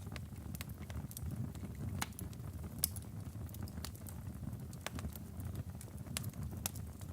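Wood fire burning in a fireplace: a steady low rumble of the flames with irregular sharp crackles and pops from the logs, one louder pop a little before the three-second mark.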